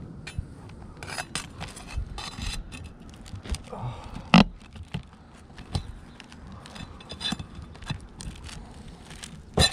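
Asphalt roof shingles scraping and crackling as a replacement shingle is worked into place under the course above, with irregular small clicks and two sharp knocks, one midway and one near the end.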